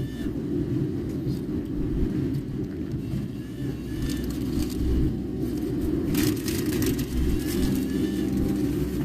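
Car cabin noise while driving: a steady low rumble of engine and road, with brief hisses about four and six seconds in.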